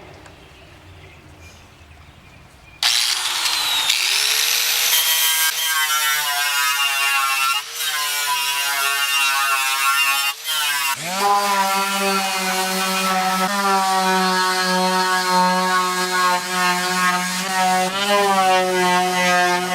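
Handheld power sanding tool working rust and paint off the steel dash panel: a loud motor whine that starts about three seconds in, dips briefly twice and spins back up about eleven seconds in, its pitch wavering as the load changes.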